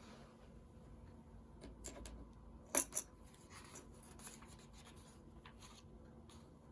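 Plastic Lego pieces being handled, with faint rustling and small clicks, and two sharp clicks close together about three seconds in.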